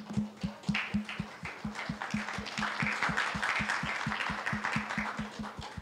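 An audience applauding over a fast, even beat of about five strokes a second; the clapping swells in the middle and the beat stops just after the end.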